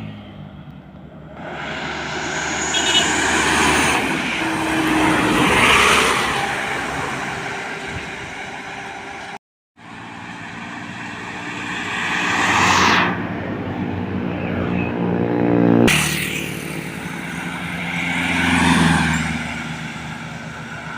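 Several trucks passing by one after another, each engine sound swelling as it approaches and fading as it goes. The sequence is broken by a brief dropout near the middle and a sudden change a few seconds later.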